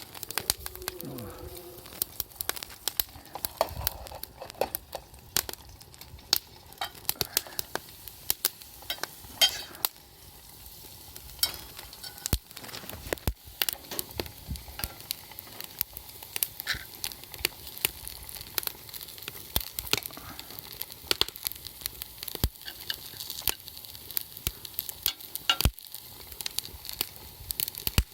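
Crackling and sizzling over a wood campfire: irregular sharp pops and snaps over a steady hiss.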